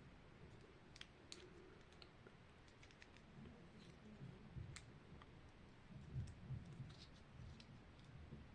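Faint, scattered clicks and light taps of small plastic pieces being handled and snapped together while assembling a miniature toy set of drawers, with a few soft knocks about six seconds in.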